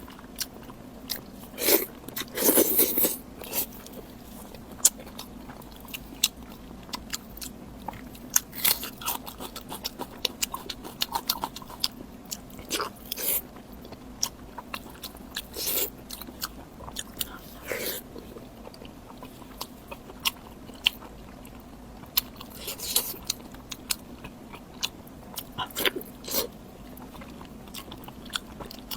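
Close-miked eating of pig lung: irregular chewing and biting with wet mouth clicks and smacks, plus a few louder bites.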